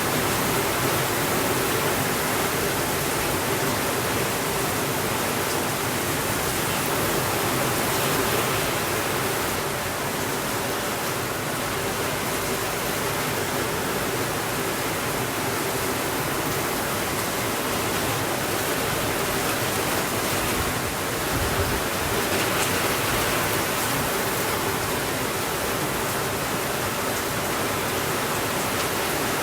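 Heavy rain on a window, a steady, even hiss, with a brief low thump about two-thirds of the way in.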